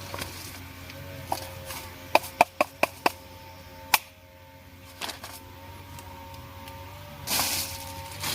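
Sharp taps: a quick run of five about two seconds in and one more about four seconds in, over a faint steady hum.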